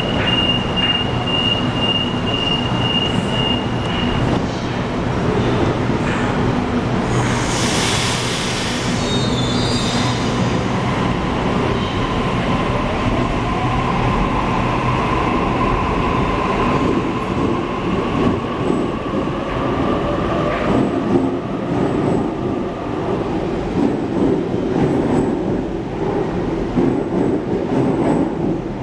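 Sydney electric train at a platform: a pulsing door-closing warning beep for about four seconds, a burst of air hiss around eight seconds in, then the train pulls away with its traction motors whining up in pitch over a steady rumble of wheels on rail.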